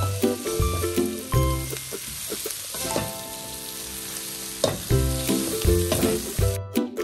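Turmeric-fried prawns and vegetables sizzling in a hot wok while a spatula stirs and scrapes them, with scattered clicks of metal on the pan. The sizzle cuts off near the end. Background music with a plucked melody and steady bass beat plays underneath.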